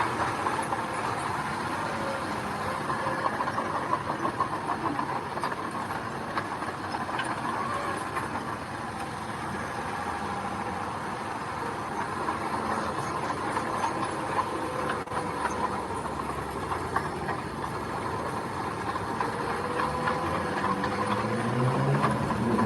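Heavy diesel earthmoving machinery running steadily with a continuous rattle. Near the end the engine pitch begins to rise.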